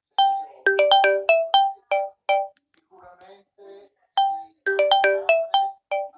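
Samsung Galaxy phone ringtone playing: a short melody of quick, bright struck notes that ring briefly. The phrase plays once and repeats about four seconds later.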